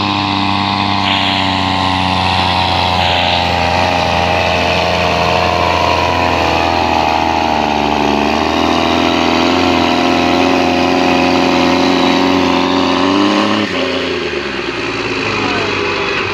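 Steyr tractor engine running hard under load, its pitch holding steady and then climbing slowly. About thirteen and a half seconds in, the throttle is cut and the engine revs fall away.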